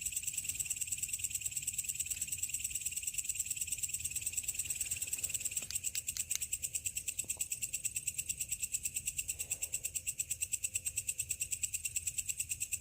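Steady chorus of night insects trilling in a fast, even pulse at two high pitches, with a few faint clicks about six seconds in.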